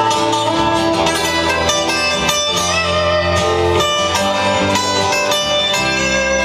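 Guitar-led instrumental band music with a bass line under sustained chords, without singing.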